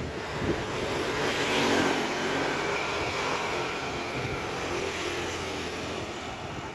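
A passing engine, louder about two seconds in and then slowly fading.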